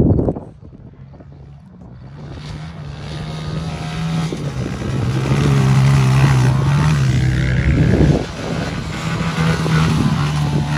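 Small pit bike engines running hard in a race, growing louder over the first few seconds and then holding at high revs. A short loud burst right at the start.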